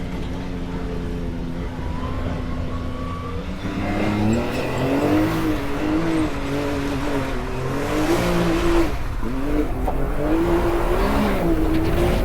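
Off-road vehicle engine crawling over rock, running steadily at first, then revving up and down in repeated short throttle blips from about four seconds in.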